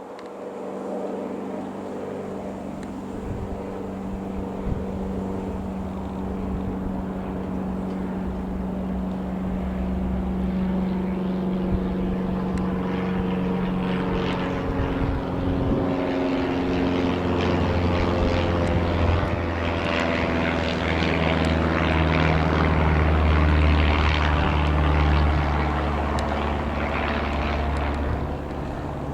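Single-engine light aircraft, a Piper PA-28-180 Cherokee with a four-cylinder Lycoming piston engine, running with its propeller. It grows steadily louder, its pitch drops about halfway through, and it is loudest a few seconds before the end.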